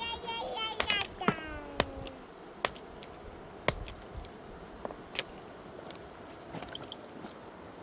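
A voice briefly at the start, then sharp knocks and clicks at irregular intervals, roughly one a second, from hard objects striking each other.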